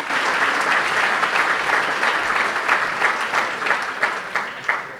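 An audience applauding: many hands clapping together, thinning out toward the end.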